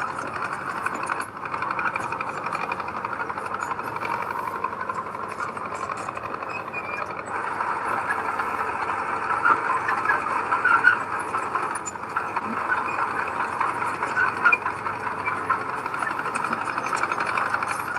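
Heavy earthmoving machinery running steadily, its engine noise mixed with small metallic rattles and a few louder peaks about halfway through.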